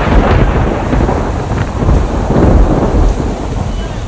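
Gale-force storm wind blasting across a phone's microphone as a heavy, continuous rumbling roar, mixed with rain and churning water.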